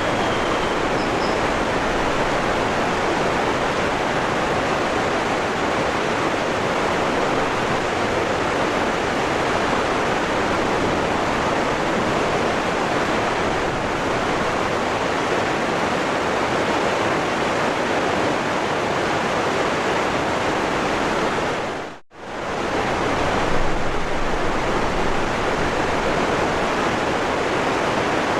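Waterfall rushing in a steady, even roar. About 22 seconds in it dips almost to silence for a fraction of a second, then comes straight back.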